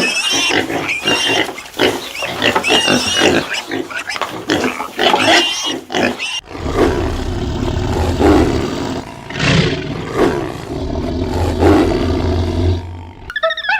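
Animal calls. First a busy run of short high-pitched calls and clicks, then, after a sudden change about six seconds in, low drawn-out growling roars over a low rumble.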